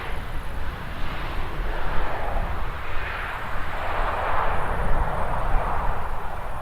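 Jet engines of a Boeing 737-700 (CFM56-7B turbofans) making a broad rushing noise that swells about four seconds in, with wind buffeting the microphone.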